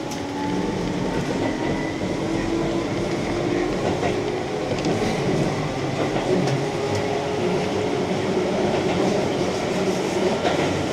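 Keihan electric train running along the line between stations: a steady rumble of wheels on rail with a motor whine whose pitch rises slightly in the first couple of seconds, and a few sharp clicks from the track.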